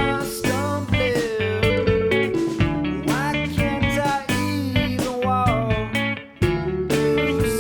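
Indie band recording with a guitar playing bending, sliding notes over bass and drums. There is a brief drop in level about six seconds in.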